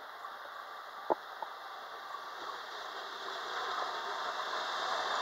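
ETR425 'Jazz' electric multiple unit approaching along the platform. Its running noise is a steady hiss that grows louder over the last two seconds as it nears, with one sharp click about a second in.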